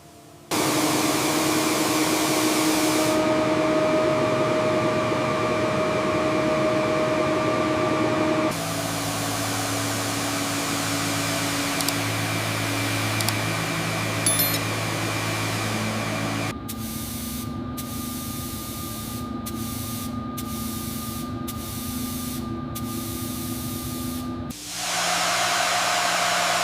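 Paint spray gun hissing steadily as primer is sprayed at low pressure, over a steady machine hum. The sound changes abruptly every eight seconds or so, and in the second half it cuts out briefly several times.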